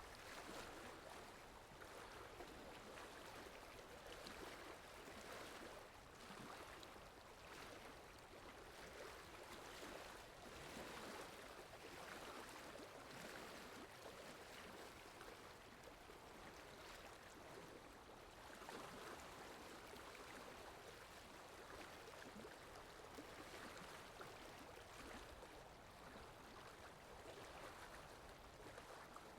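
Faint, steady hiss of falling rain, swelling and easing gently every few seconds.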